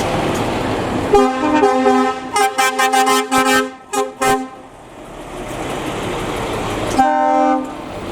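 Truck horns sounding a rapid string of short toots and blasts, then one more longer blast about seven seconds in, over the noise of passing trucks.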